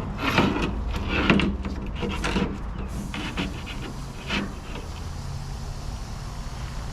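A steady low engine hum with a series of scraping knocks, about five in the first four and a half seconds, as something hard is shifted or dragged.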